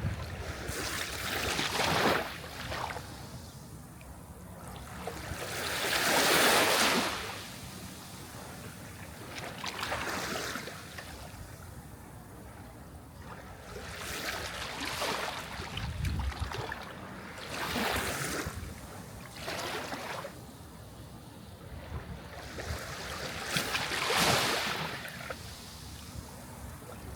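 Sea waves breaking and washing up, rising and falling in surges of hissing surf every three to six seconds, loudest about six seconds in and near the end.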